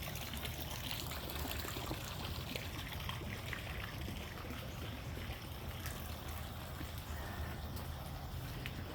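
Steady trickle of running water, with a few faint clicks scattered through it.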